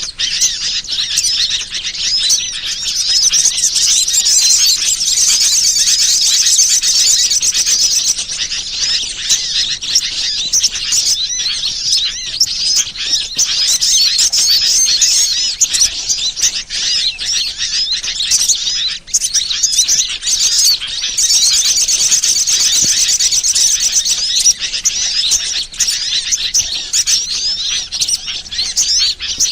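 Dense, continuous chatter of small songbirds, rapid high-pitched chirps and trills overlapping with hardly a break: a bird-lure (pikat) call recording used to draw in wild birds.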